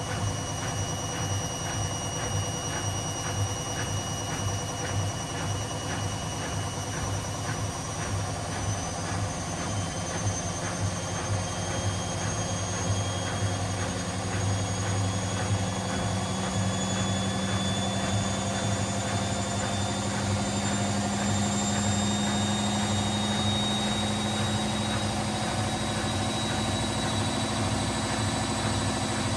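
Washing machine in its spin cycle with sneakers in the drum, the motor whine rising slowly in pitch as the drum speeds up. A regular knocking runs through the first half and fades out as the spin builds.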